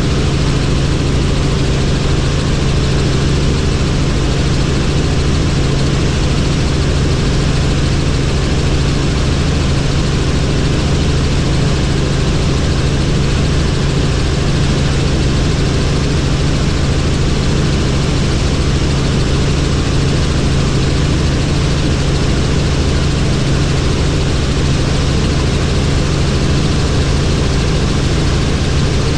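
Helicopter in steady flight: a constant drone of engine and rotor, with a steady low hum under an even rushing noise.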